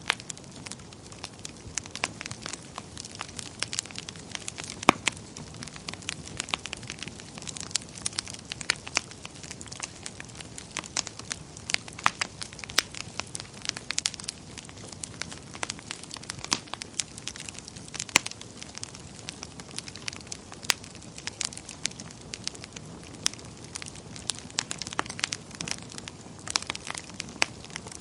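Wood fire burning in a fireplace, crackling and popping irregularly with many sharp snaps over a soft steady hiss.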